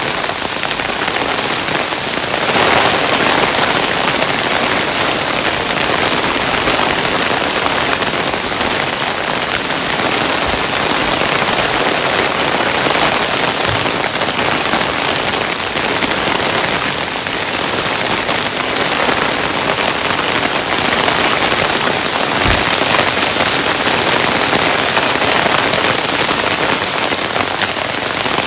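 Hail falling steadily, a dense hiss of stones striking a surface, with a few brief low thumps now and then.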